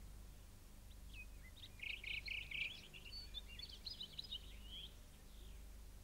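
Faint, quick high bird chirps and twitters, densest about two seconds in and dying away near the end, over a low steady hum.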